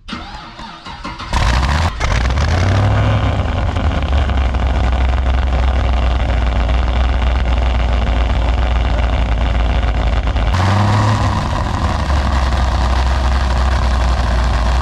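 Chevrolet Caprice PPV's V8 fires up about a second in, flares briefly and settles into a loud, steady idle through an exhaust with party whistles taped into the pipe. It flares up again once near the end.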